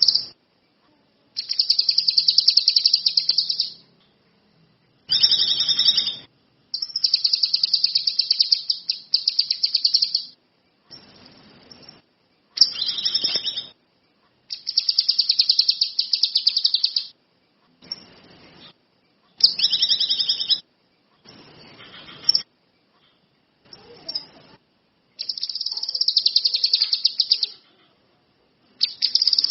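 A small cage songbird singing in a series of fast, high, rattling trill phrases, each lasting up to about three seconds, with short gaps between them that cut to silence.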